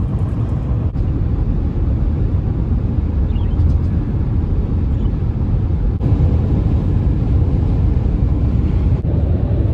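Steady road and engine noise inside a moving car's cabin, a low rumble.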